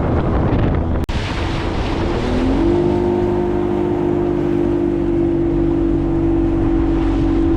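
Motorboat engine running under way: its pitch rises about two seconds in, then holds steady at cruising speed, with wind buffeting the microphone throughout.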